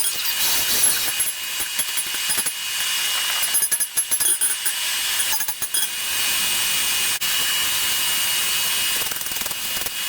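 Forging of a steel axe head: short bursts of rapid hammer blows on the anvil, about three and a half and five and a half seconds in, over a steady rushing noise that fills the gaps.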